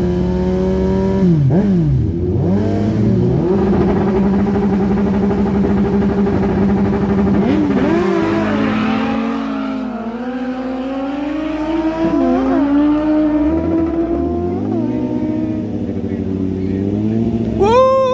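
Several large superbike engines running together, idling with repeated throttle blips that rise and fall in pitch. A sharp, loud rev comes near the end.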